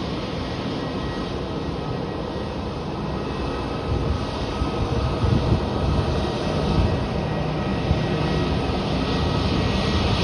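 Jet aircraft engines running steadily: a dense rumble with a faint steady whine, growing slowly louder.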